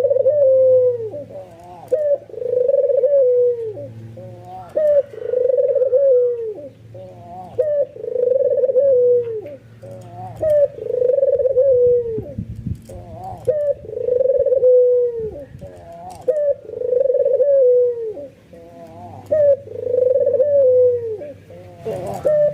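White (albino) ringneck dove giving its bowing coo over and over, one drawn-out coo about every two seconds, each ending on a falling note: an excited display call.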